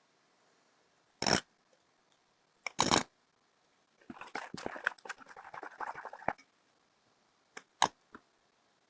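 A tablespoon scooping creamy peanut butter: two sharp knocks of the spoon, then about two seconds of rapid scraping and clicking, then a few more short clicks near the end.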